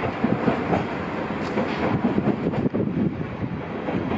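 Single-deck NS Koploper (ICM) electric intercity train moving past alongside the platform: a steady rumble of wheels on rail with motor noise.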